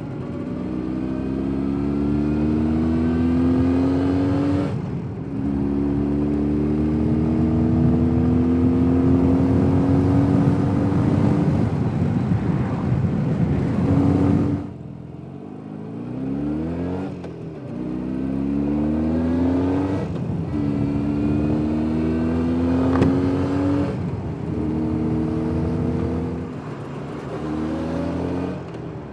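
Jawa 350 type 638 two-stroke twin engine pulling the motorcycle along, its revs climbing in each gear and breaking off briefly at each shift, about five times. A little past halfway the throttle closes and the revs fall away for a couple of seconds, then it pulls up through the gears again.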